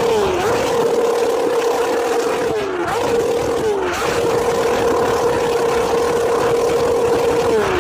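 Superbike engine revved hard through its exhaust and held at a steady high pitch, dipping briefly and snapping back up a few times early on; near the end the revs fall away smoothly.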